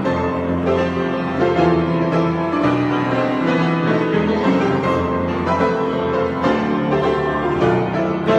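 Solo piano improvising slowly, with held chords and notes mostly in the low and middle range.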